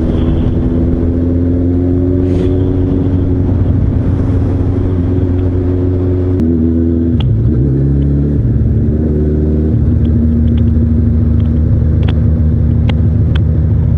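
Suzuki GSF1200's oil-cooled inline-four engine running steadily under way. About six seconds in the engine note rises, drops back, then settles at a new steady pitch.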